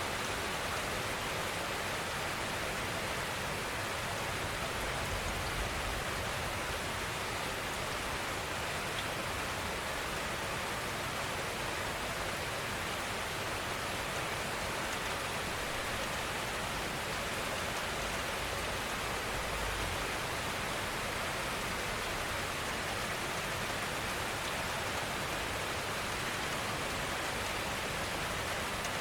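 Steady, even rainfall: a continuous soft hiss of rain with no separate drops standing out.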